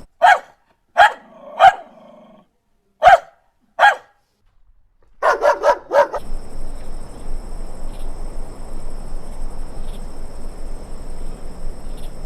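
A dog barking: five single barks spaced about a second apart, then a quick run of four. After that, a steady hiss with a faint high whine.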